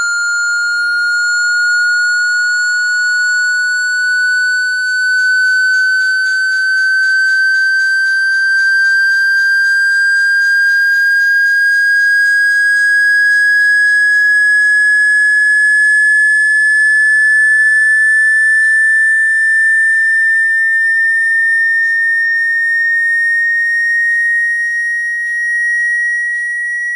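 A single steady electronic sine tone, slowly and evenly rising in pitch: a water-ejection tone meant to shake water out of a phone's loudspeaker.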